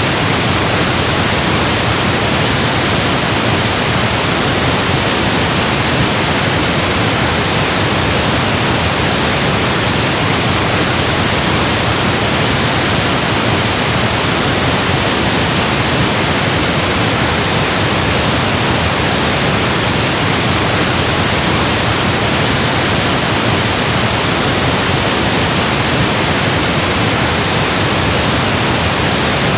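Steady, loud synthetic pink noise: an even, unchanging hiss across the whole range of pitch.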